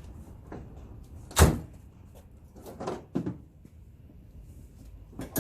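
Knocks of welded metal railway-signal parts being handled and fitted together: one loud, heavy clank about a second and a half in, then a few lighter knocks.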